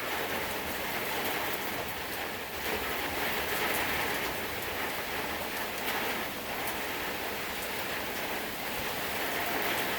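Heavy thunderstorm rain falling steadily, building in waves that swell and ease every few seconds.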